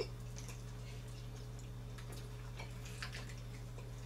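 People chewing grilled chicken drumsticks: scattered soft mouth clicks and smacks, faint, over a steady low hum.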